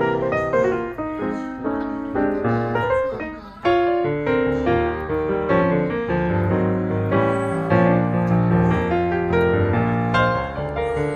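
Background piano music: a bright melody over a steady bass line, with a short pause about three and a half seconds in.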